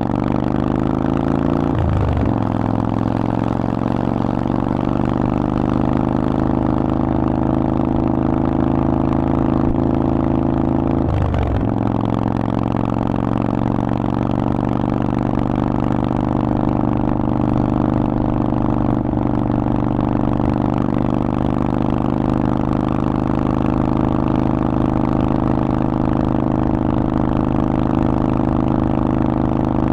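Harley-Davidson Forty-Eight's air-cooled 1200 cc V-twin running through a Vance & Hines exhaust under way. Its note climbs slowly, with a brief break about two seconds in and again about eleven seconds in, like upshifts, then holds steady.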